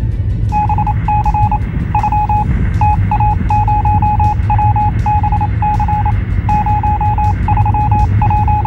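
An electronic beep tone keyed on and off in an irregular run of short and long beeps, like Morse code, starting about half a second in, over the steady low rumble of the moving car.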